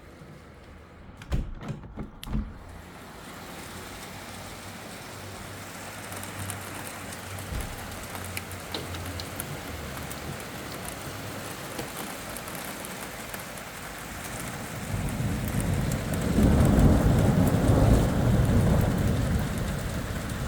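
Steady rain hiss during a thunderstorm, with a long low rumble of thunder building about fifteen seconds in and dying away near the end. Two short knocks sound a second or two in.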